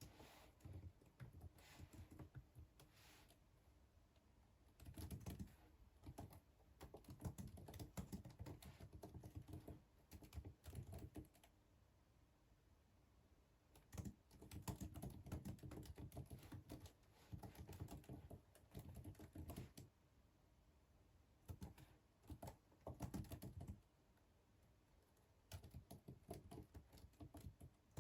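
Typing on a computer keyboard: quick runs of key clicks, several seconds each, broken by short pauses.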